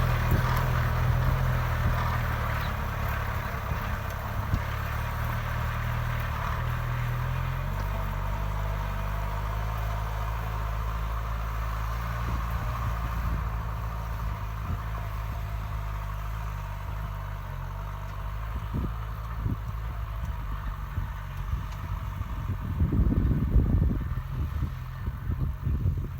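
Kubota M6240SUH tractor's diesel engine running steadily under load while rotary-tilling a wet paddy, its note dropping slightly about a third of the way through. A short clattering burst stands out near the end.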